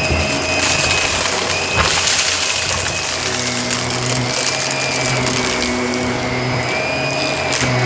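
Shark vacuum cleaner running over carpet: a steady motor whine over dense noise, with a low hum that drops out and comes back. It gives two sharp crunching clicks of debris being sucked up, about two seconds in and near the end.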